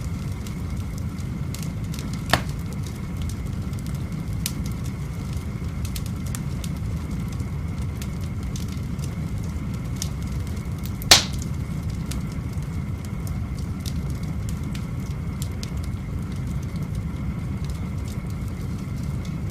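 Wood fire burning in a fireplace: a steady low rush with scattered faint crackles, a sharp pop about two seconds in and a louder one about eleven seconds in.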